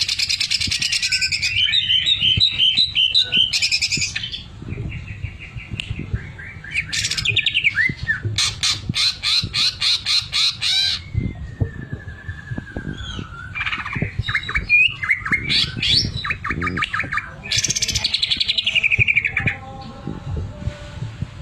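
Greater green leafbird (cucak ijo) singing loudly and without pause: a varied run of rapid chattering trills, harsh buzzy phrases and whistles, with a long falling whistle in the middle. It is a song rich in mimicked phrases.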